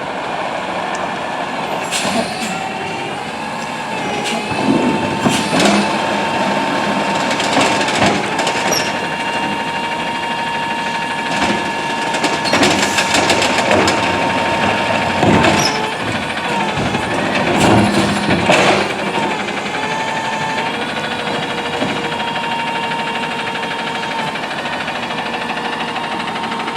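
Autocar ACX automated side-loader garbage truck working: a steady high whine from the running hydraulics over the engine, with repeated bangs and clatter from the arm and cart handling, loudest about five, eight, thirteen and eighteen seconds in.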